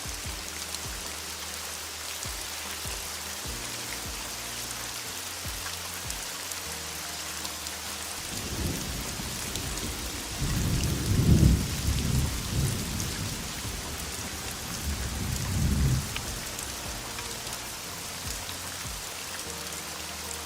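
Steady heavy rain with a low rumble of thunder that rolls in about eight seconds in, peaks near the middle, swells again and fades out at about sixteen seconds. Soft, sustained low music tones sit underneath.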